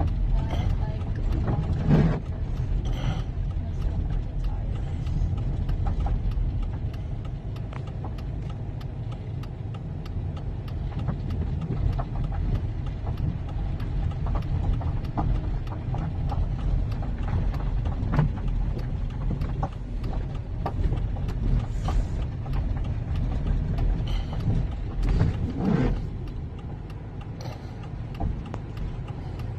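A van driving on a storm-flooded road strewn with rocks and debris makes a steady low rumble, with a few knocks about two seconds in and again near the end.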